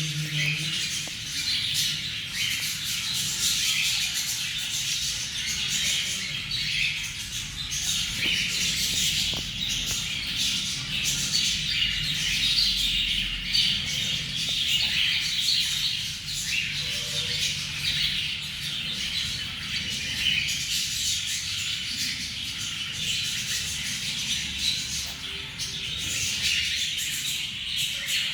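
Cockatiel chicks chirping and squawking in a continuous, dense chatter of many short, harsh calls.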